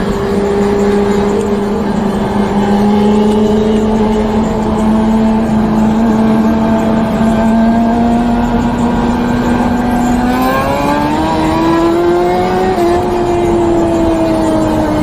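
Sportbike engine running under way at steady revs, the pitch creeping slowly upward. About two-thirds of the way through, the revs climb more sharply under added throttle, then ease slowly back down.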